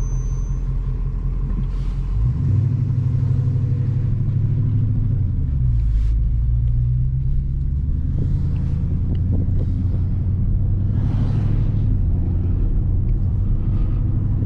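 Dodge Scat Pack's 6.4-litre HEMI V8 rumbling as heard from inside the cabin while driving. The engine note steps up about two seconds in, as the car picks up throttle.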